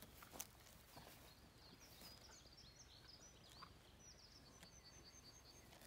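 Faint songbird singing: a quick run of high chirps and short repeated notes through the middle, over quiet outdoor background, with one sharp click about half a second in.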